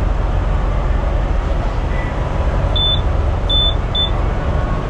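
Steady low rumble of an idling diesel truck engine, with three short high-pitched beeps about three to four seconds in.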